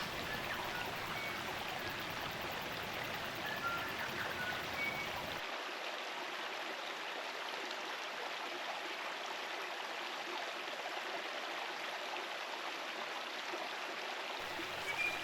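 Steady rushing of a spring-fed stream's running water, with a few short bird chirps in the first few seconds.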